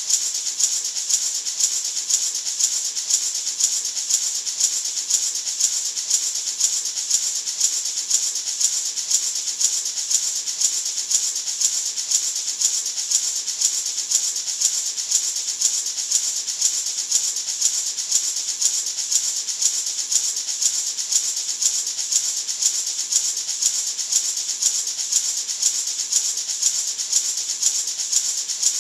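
Natural gourd maraca shaken steadily in an even rhythm, about two shakes a second, giving a bright, hissing rattle.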